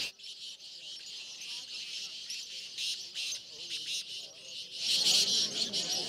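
Dense high chirping of caged partridges and other birds, with crowd voices growing louder near the end.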